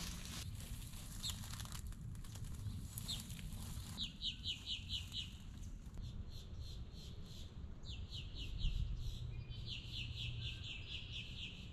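A bird calling in quick runs of rapid, evenly repeated chirps, three runs starting about four seconds in, over a faint low outdoor rumble.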